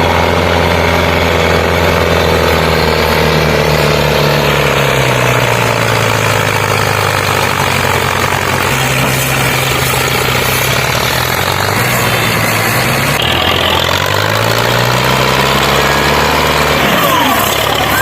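Tractor diesel engine running, its speed dipping and rising several times.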